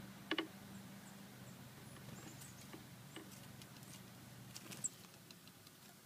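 Birds pecking at scattered birdseed close to the microphone: a few sharp taps, the loudest about a third of a second in and near the five-second mark, with lighter ticks between, over a faint steady hum.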